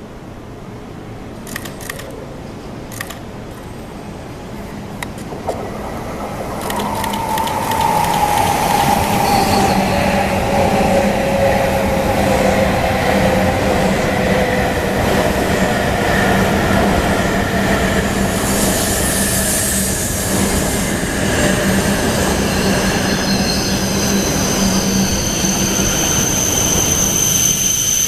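E5 and E6 Shinkansen trainset running at the platform, its noise swelling after a few sharp clicks. Once loud, the electric motors' whine falls slowly in pitch over several seconds, then high steady whines sound over the rolling noise.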